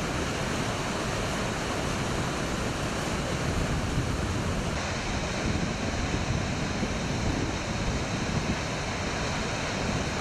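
Düden Waterfall's swollen, storm-fed flow rushing and crashing in a steady, unbroken wash of water noise.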